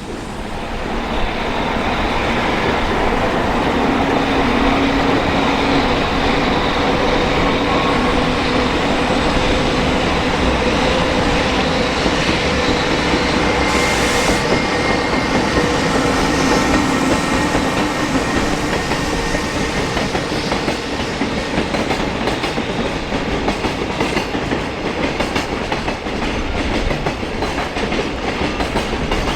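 Container freight train passing close by, the wagons' wheels clattering steadily over the rail joints, with a brief high hiss about halfway through.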